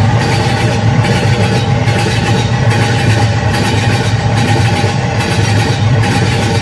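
Moving train heard from an open coach door: a loud, steady rumble of running gear on the rails while another train passes on the next track.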